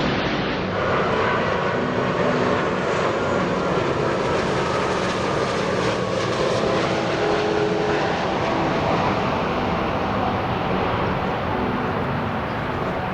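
Jet engines of a Swiss Airbus A330 airliner, a steady dense rush of engine noise with a faint whine that slowly falls in pitch over the first several seconds.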